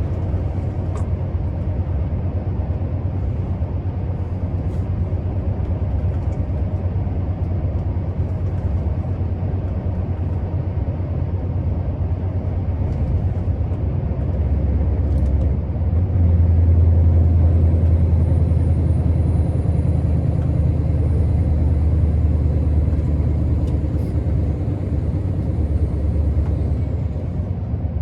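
Scania R650's 16-litre V8 diesel engine running under way, with road noise. The engine note grows louder about halfway through and holds. A faint high whine rises in a few seconds later and drops away near the end.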